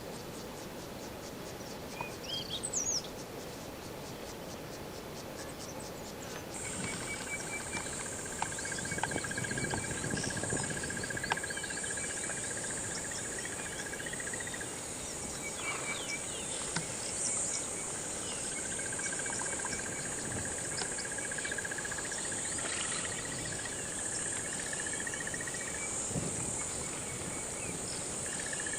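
Insects trilling in the bush: a steady high-pitched buzz that starts suddenly about six and a half seconds in. Under it, lower long trills start and stop, and a few short chirps come near the start.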